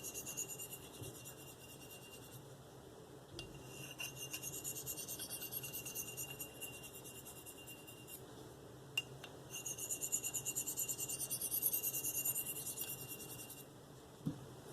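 Steel knife edge (Spyderco Endura 4, V-Toku2) drawn across a fine Spyderco 302f ceramic stone in quick single alternating passes with very light pressure: a high scraping hiss in runs of a few seconds, with short pauses between them and a click near the middle. The light alternating strokes are the deburring stage of sharpening.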